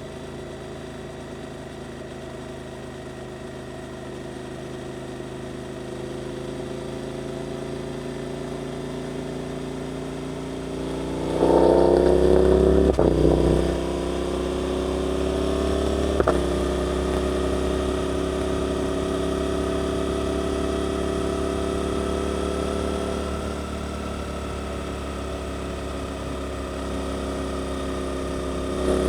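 Suzuki GSX-8S parallel-twin engine through an Arrows aftermarket exhaust, running at part throttle with slowly rising revs. It opens up loudly about eleven seconds in. A couple of seconds later the rising revs break off with a sharp crack, probably the change up into the next gear, and it settles into a steadier cruise. It picks up again right at the end.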